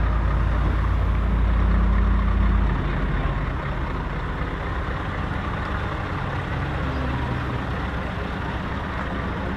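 Heavy truck engine running steadily, a deep rumble that is loudest for the first three seconds and then settles lower.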